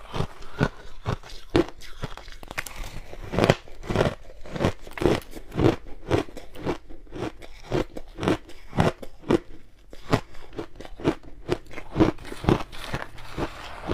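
Ice being bitten and chewed: a steady run of crisp crunches, about two a second.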